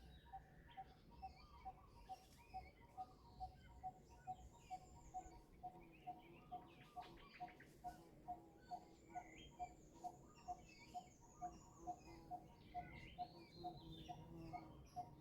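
Faint outdoor birdsong: one short, low note repeating evenly about twice a second, with scattered higher chirps and twitters around it.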